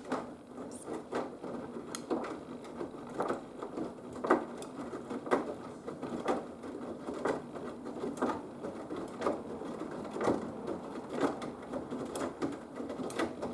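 Haier HW120 front-loading washing machine running a wash, its drum turning with a swishing stroke about once a second over a steady motor hum.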